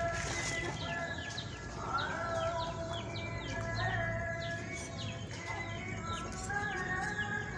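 Small birds chirping busily: short high calls that fall in pitch, several a second, over a steady low hum.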